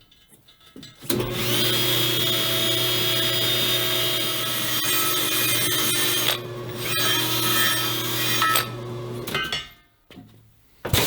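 Electric power tool spinning up about a second in and buffing rust off a truck rim's bead area for about eight seconds, then stopping.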